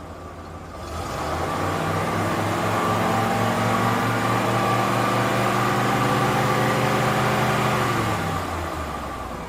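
A vehicle engine running with a steady low hum. It swells up about a second in, holds an even pitch, and dies away near the end.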